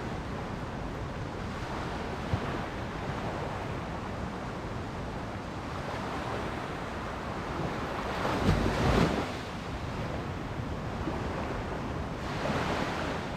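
Ocean surf washing on a beach, a steady rush of waves with a louder surge about eight seconds in and another near the end, with wind on the microphone.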